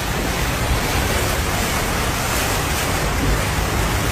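Steady rushing of water from heavy rain and floodwater.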